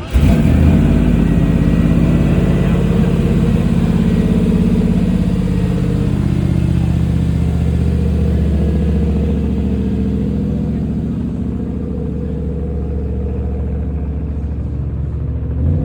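A classic car's engine running loudly and steadily. It comes in suddenly at the start, with a low, even set of engine tones, and eases off a little after about ten seconds.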